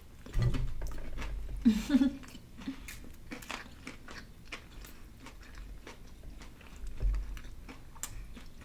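Biting and chewing a fried chicken sandwich on glazed donut buns, with crunching of the fried breading and irregular wet, crackly mouth sounds.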